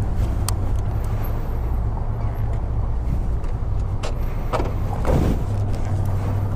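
A vehicle engine running steadily with a low, even hum, a few faint clicks, and a brief swelling whoosh about five seconds in.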